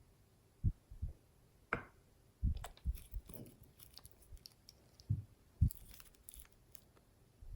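Slime being squished and pressed by hand: irregular soft, low squelches and pops, with brief crackly clicks in the middle stretch.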